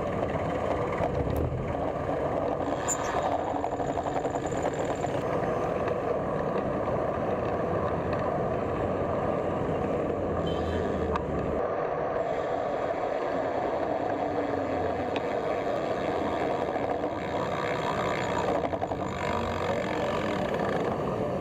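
Steady road traffic noise, an even rumble with no break.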